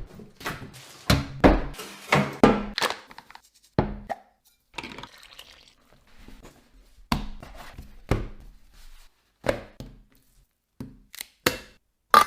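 Chopping: a string of sharp knocks at an uneven pace, some coming in quick runs of two or three strokes.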